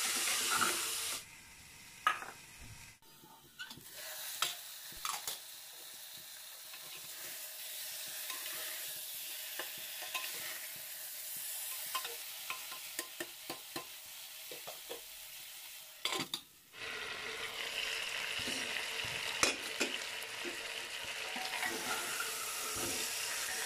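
Pork leg pieces and black dal frying in masala in a pressure cooker, sizzling while a metal spoon stirs and scrapes the pot with many small clinks. The sizzle is quieter for a few seconds after about a second in and drops out briefly around sixteen seconds.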